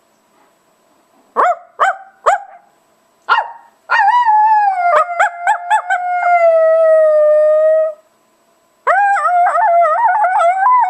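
Coyotes yipping and howling, sounding like hyenas: a few sharp yips, then a long wavering howl that slowly falls, then a burst of warbling yips and howls near the end. The speakers take the outburst for what coyotes do when they catch prey.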